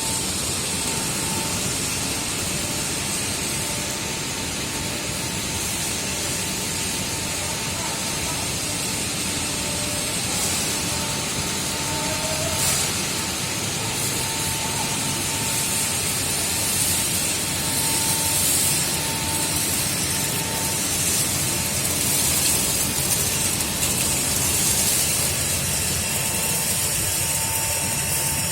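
Industrial microwave drying and sterilizing machine running: a steady, even mechanical noise with a hiss and a faint steady tone.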